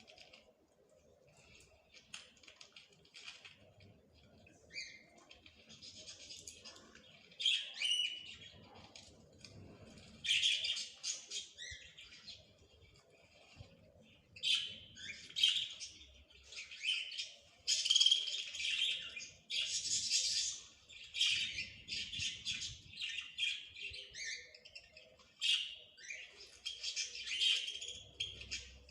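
Small songbirds twittering and chirping in quick high phrases, one after another with short gaps, busiest in the second half.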